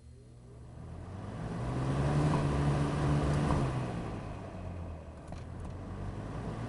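Vintage late-80s Galaxy 3713 box fan starting up: the motor hum rises in pitch and the rush of air builds over about two seconds, then the fan runs steadily. Its motor is one the owner says grinds and needs thrust washers.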